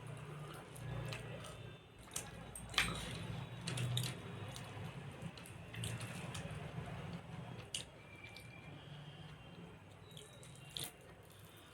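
Wet eating sounds: fish curry and rice being chewed, with scattered small clicks and smacks.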